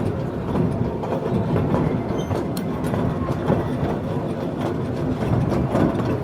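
Small amusement-ride train running along its track, a steady rumble with the wheels clattering and clicking over the rails.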